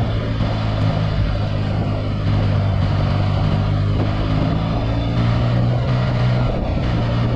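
2018 Yamaha XSR900's inline three-cylinder engine, breathing through an Akrapovic carbon full exhaust, running at a steady, unchanging pitch on the move. A constant rush of wind noise runs underneath it.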